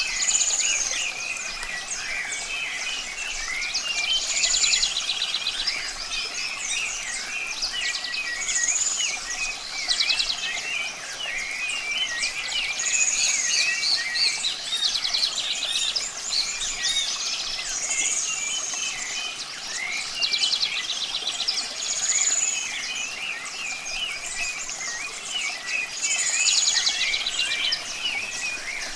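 Several songbirds chirping and singing together. One bird repeats the same phrase about every four seconds, a rapid trill and a high arched whistled note, over a faint steady hiss.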